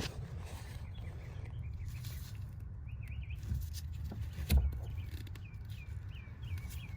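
Small birds chirping in the background: a run of short, quick calls over a low steady rumble, with a single sharp knock about four and a half seconds in.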